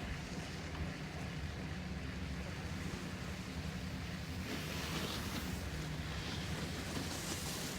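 Steady low engine rumble with a constant hum, with two spells of rushing hiss about four and a half and seven seconds in.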